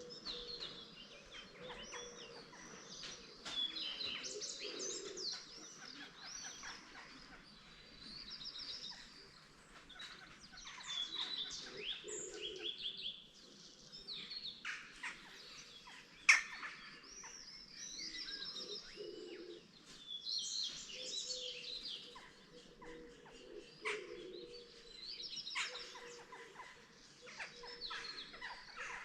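Morning chorus of several small songbirds singing overlapping, twittering phrases, with softer low calls underneath. One sharp click about sixteen seconds in is the loudest moment.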